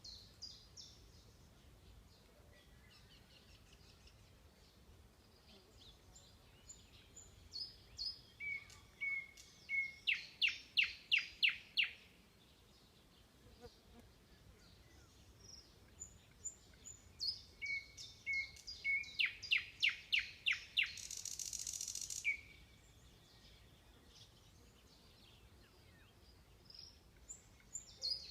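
A songbird singing two songs, each a run of high notes that turns into a fast series of loud sweeping notes, the second song ending in a short buzzy burst. A faint low background hum runs underneath.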